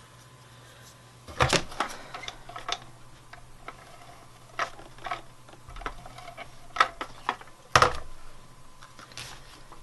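Scattered sharp clicks and taps from paper and small craft tools being handled on a worktable. The two loudest come about a second and a half in and near the eight-second mark, with a few fainter ones between.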